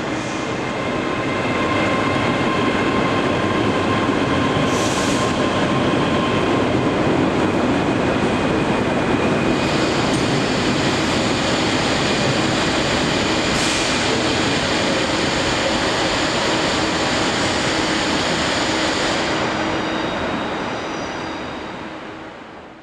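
A train running on the track: a steady rail rumble with thin whining tones over it, fading out over the last few seconds.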